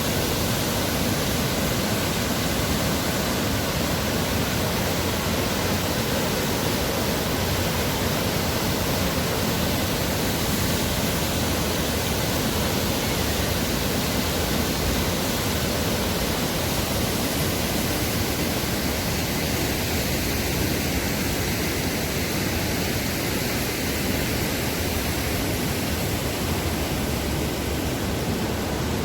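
Steady rushing of water pouring down a canal waterfall, an even, unbroken roar of falling water.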